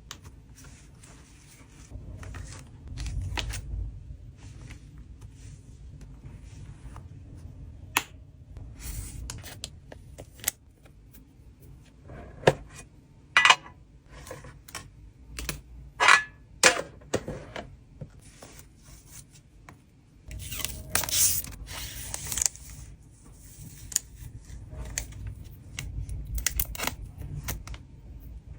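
Close-up handling of trading cards and packing materials: plastic and paper crinkling and rustling, with sharp clicks and snaps and a louder stretch of rustling about twenty seconds in. A low wind rumble on the microphone sits under it.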